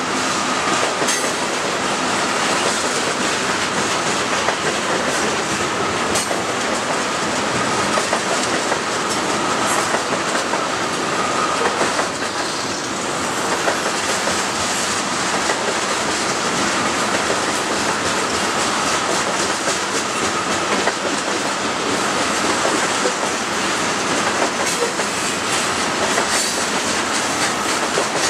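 Freight train tank cars rolling past, a steady rush of steel wheels on the rails with a light wheel clatter and a faint, thin squeal running underneath.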